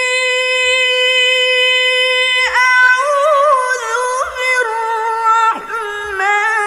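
Music: a high singing voice holds one long steady note for about two and a half seconds, then breaks into ornamented, wavering runs of notes with quick downward slides, over a soft low beat about every two seconds.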